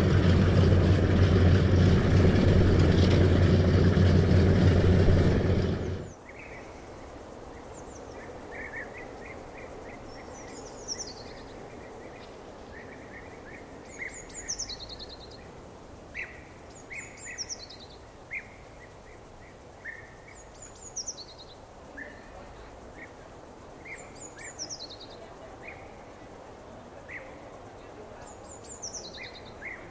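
A loud, low steady drone stops abruptly about six seconds in. Then birdsong takes over: one bird repeats a short falling phrase every three to four seconds, with scattered chirps in between.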